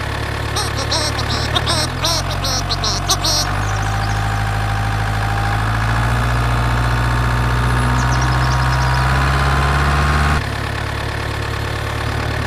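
An engine idling, stepping up to a louder, slightly higher run about three and a half seconds in and dropping back to idle near the end. A run of light clicks comes in the first three seconds.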